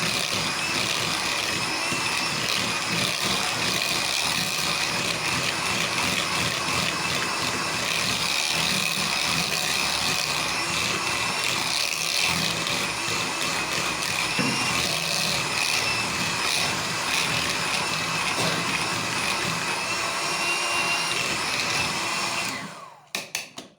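Electric mixer running steadily with a high whine, beating crème pâtissière with a spoonful of butter. The motor stops about a second before the end.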